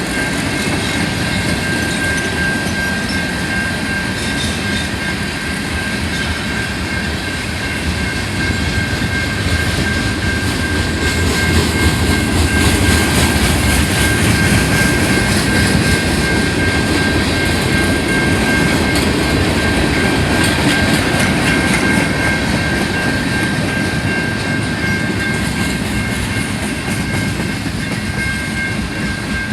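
A train rolling past with a continuous rumble and wheel clatter, loudest around the middle. Two steady high-pitched tones run through it, likely wheel squeal.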